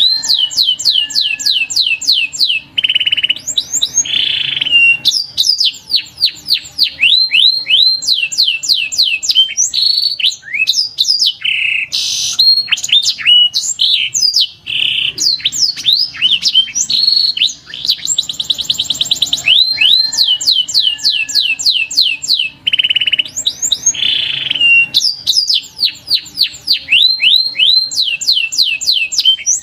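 Domestic canary singing: fast trills of repeated downward-sweeping notes alternating with short buzzy rolls, one long song recording that repeats about every 20 seconds.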